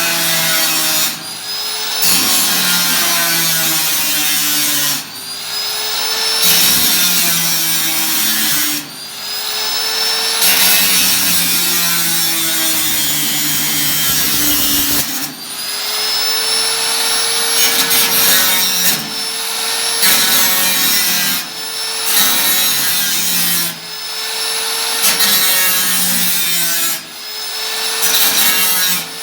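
A tool cutting the thin sheet metal of an 18-litre can in repeated passes of a few seconds each, with brief pauses between; the can rings as it is cut.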